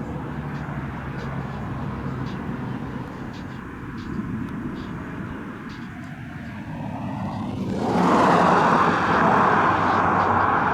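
A light rail train running by, with a steady low hum. About eight seconds in, a much louder rushing sound sets in sharply as it passes close.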